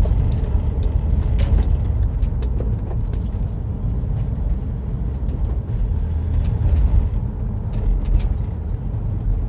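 Inside a moving van's cabin: the steady low rumble of the engine and tyres on the road, with a few light knocks and rattles.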